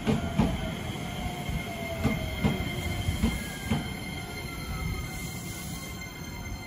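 Shizuoka Railway A3000-series electric train passing close by, its wheels clacking over rail joints in pairs of strikes, with a falling whine as it goes by. The sound eases off near the end as the last car clears.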